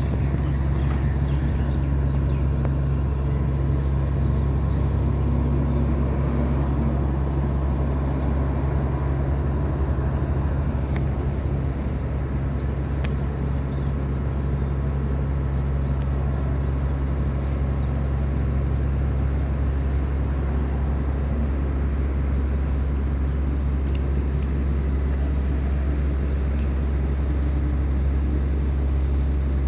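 Small wooden tugboat's engine running at a steady low drone while towing four heavy pontoons.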